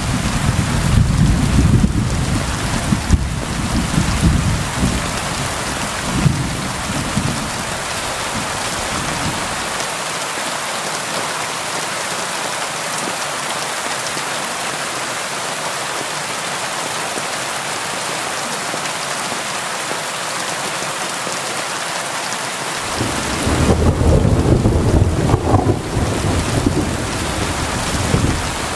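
Steady rain against a window, with low rolls of thunder: one rumbling through the first third and fading out, and another swelling up near the end.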